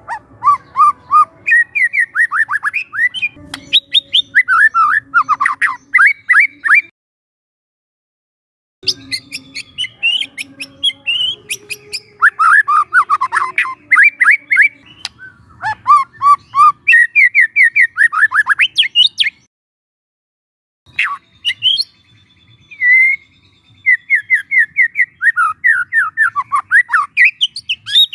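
Young wild white-rumped shama singing rapid runs of short, sharp sweeping notes, several a second, broken twice by short silences.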